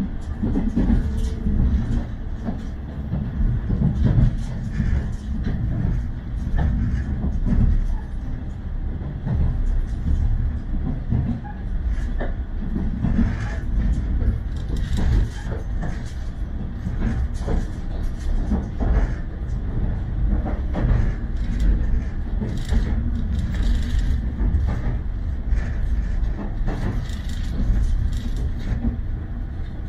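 A train in motion heard from inside the passenger car: a steady low rumble from the running gear, with scattered clicks and knocks from the wheels on the track.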